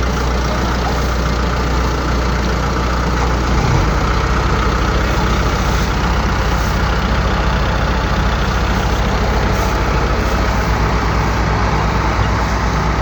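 Heavy farm machine's diesel engine running steadily; about four seconds in its note changes and it gets a little louder.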